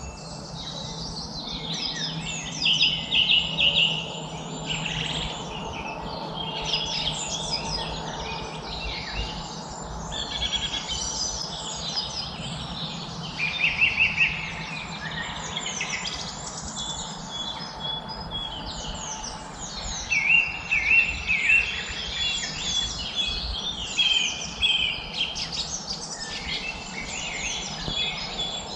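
Several songbirds singing and chirping at once, overlapping quick high chirps and trills with louder bursts every few seconds, over a steady background hiss.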